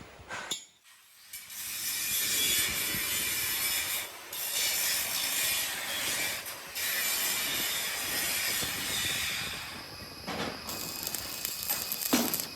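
Workshop metalworking machinery running with a steady high-pitched hissing, grinding noise that breaks off briefly twice and fades out after about ten seconds, followed by a couple of sharp metal knocks near the end.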